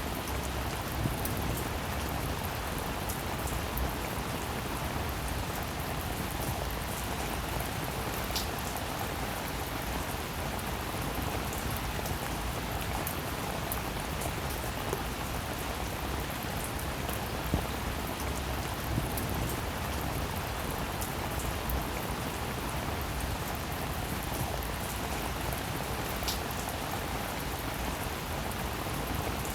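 Steady rainfall, an even hiss of rain with many fine drop ticks and a few louder single drips.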